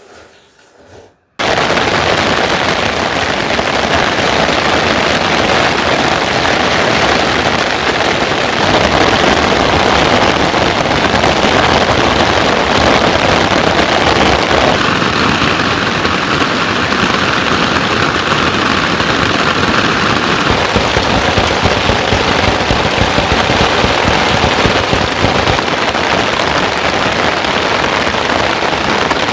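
Heavy rain pouring, a dense, loud patter of drops striking a hard surface, starting suddenly about a second in.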